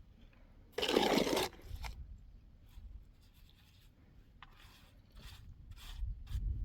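A short loud scrape about a second in, followed by a series of fainter scrapes and light knocks.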